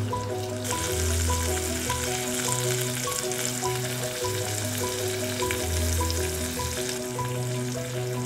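Pollack roe and garlic sizzling in melted butter in a cast-iron pot, the hiss easing near the end. Light background music with held notes and a bass line plays underneath.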